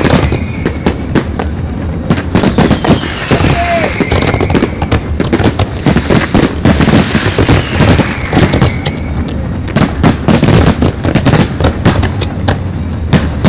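Fireworks display: a dense, continuous barrage of bangs and crackles from many shells and fountains going off at once, with a few high whistles that fall in pitch.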